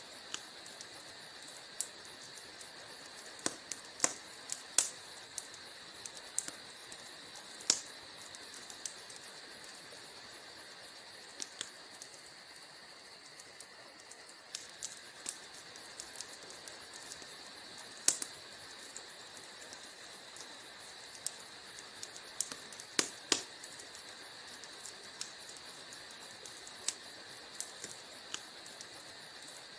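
Wood fire in a fireplace crackling, with irregular sharp pops and snaps over a steady high hiss. A few louder pops stand out, including a close pair about 23 seconds in.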